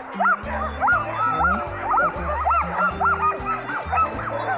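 A team of sled huskies yipping, yelping and barking excitedly in harness, the many overlapping yelps rising and falling in pitch: the dogs are eager to be let go and start running. Background music with steady low held notes plays under them.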